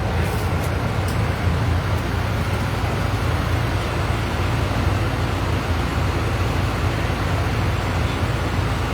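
Steady rumble and road noise of a moving vehicle, even throughout with no distinct events.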